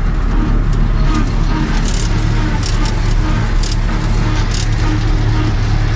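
U-650M tractor's diesel engine running steadily, with a few brief high rattles over it.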